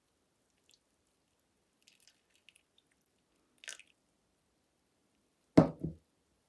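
A few faint clicks and a short scrape, then a solid knock about five and a half seconds in, with a second, lighter knock right after it.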